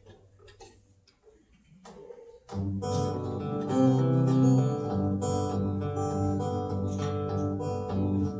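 Acoustic guitar begins the instrumental intro of a song about two and a half seconds in, notes and chords ringing on, after a quiet pause with a few faint clicks.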